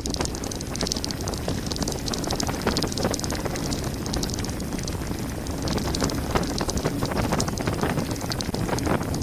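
Mountain bike descending fast on a gravel forest road: tyres crunching over stones and the bike rattling in dense, irregular clicks, over a constant low rumble of wind on the microphone.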